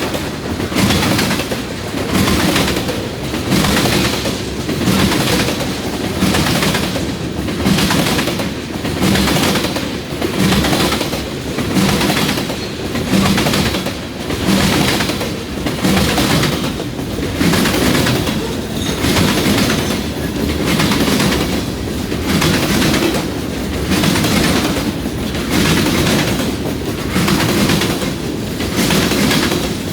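Long CN freight train's cars rolling past, steel wheels clickety-clacking over the track, the clatter swelling and easing in a regular rhythm about every two seconds as each car's wheel sets go by.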